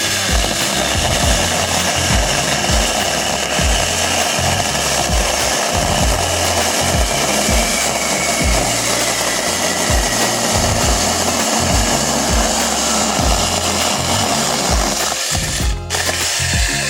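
A 4-inch battery-powered mini chainsaw running and cutting through wood steadily for about 15 seconds, stopping near the end. Background music with a steady beat plays underneath.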